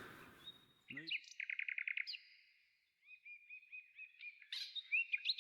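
Songbird singing faintly: a quick trill of about eight notes about a second in, then a string of short, high chirps.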